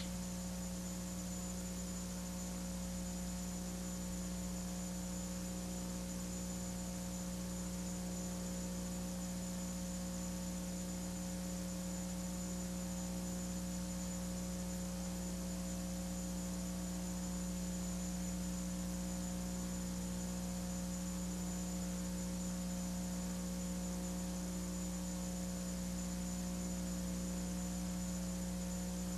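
Steady electrical mains hum: a strong low drone with several fainter higher tones above it, unchanging throughout.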